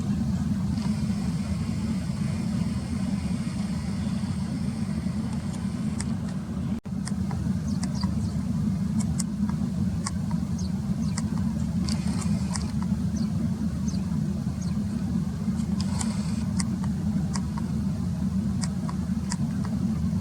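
Eurasian tree sparrows giving many short, high chirps over a steady low rumble.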